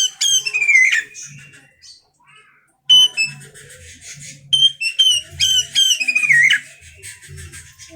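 Oriental magpie-robin singing: loud phrases of clear whistled notes, each ending in a falling slur. The first ends about a second in; after a short pause a longer phrase runs from about three to six and a half seconds, followed by softer chattering.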